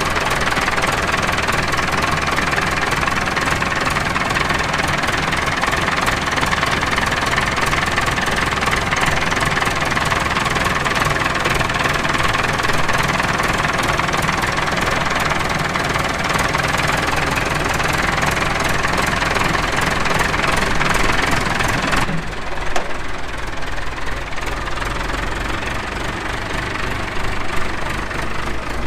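Tractor engine running steadily and loudly; about three-quarters of the way through the sound drops suddenly to a quieter, lower running.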